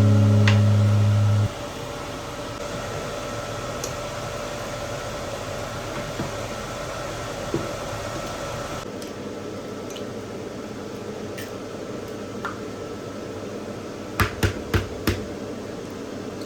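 A loud steady low hum that cuts off sharply about a second and a half in, then steady fan-like background noise with a few faint clicks and four sharp clicks in quick succession near the end.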